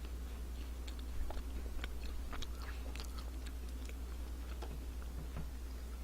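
Close-up chewing of a Nature Valley Sweet & Salty peanut granola bar: faint, irregular crackly clicks of a bar that is firm rather than chewy.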